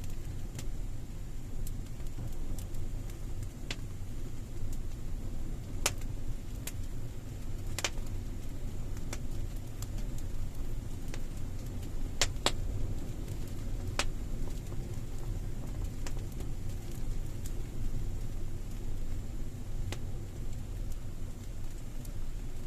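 Campfire in a cave crackling: a steady low rumble of burning with sharp pops and snaps every second or two. The loudest is a quick pair of pops about halfway through.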